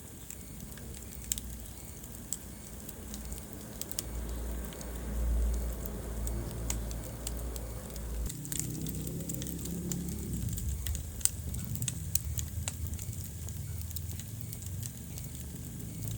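Wood fire in a fireplace, crackling with scattered, irregular sharp pops over the low, uneven rumble of the flames.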